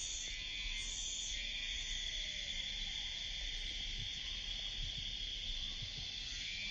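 Summer cicadas shrilling steadily, a continuous high drone. Over it, a pulsing call swells and fades about once every three-quarters of a second, then stops about two seconds in.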